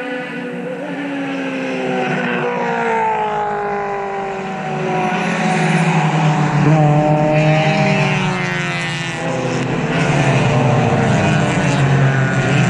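Several race cars passing in succession during a road race, their engines overlapping at high revs, the pitch of each rising and falling as it goes by. The sound swells about six seconds in and again near the end.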